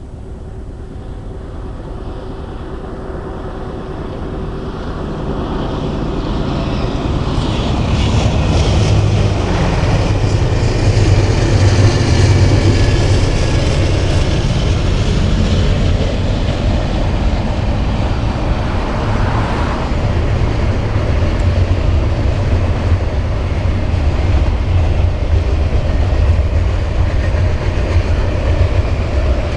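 A train hauled by diesel locomotives running past, with a steady low engine rumble and wheel noise. It grows louder over the first ten seconds or so, then holds steady.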